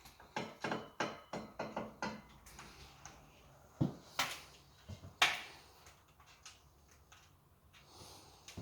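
A quick run of light clicks and knocks, then three louder knocks about four to five seconds in.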